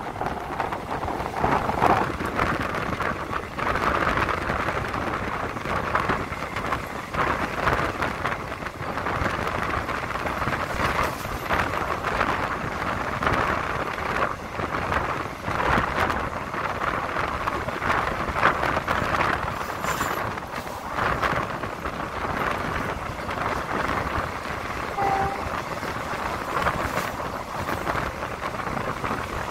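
Steady running noise of a moving passenger train heard from an open carriage window, wheels on the rails mixed with wind rushing past and buffeting the microphone.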